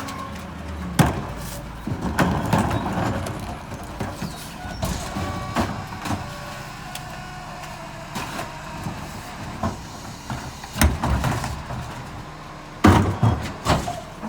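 Mack MRU rear-loader garbage truck with a McNeilus body running, with a steady low engine hum under repeated bangs and clatter, the loudest about a second in and twice near the end.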